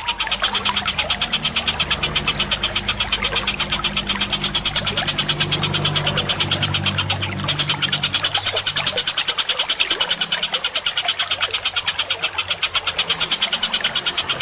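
Bird-call training recording: a fast, even train of sharp high chirps, about seven a second, broken briefly about halfway through, over a steady low hum.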